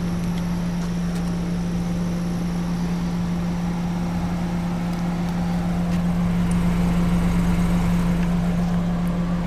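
Ford Escape's 2.0-litre EcoBoost turbocharged four-cylinder idling, a steady hum that grows slightly louder as the tailpipe comes near.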